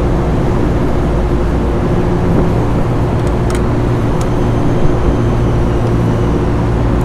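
Loud, steady machine hum with a constant low drone, with a couple of faint clicks about halfway through.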